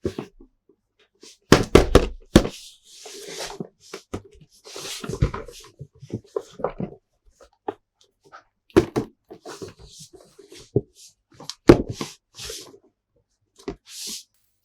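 Hard plastic toys being handled: a series of irregular knocks and clicks, loudest in clusters near the start, the middle and about three quarters through, with short scraping sounds in between.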